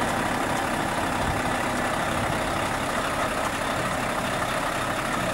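Scania truck running steadily, an even mix of engine and road noise.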